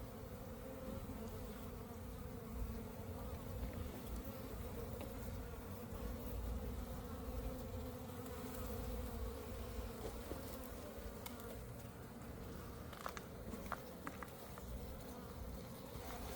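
Honeybees buzzing as a steady hum throughout, with a few faint clicks near the end.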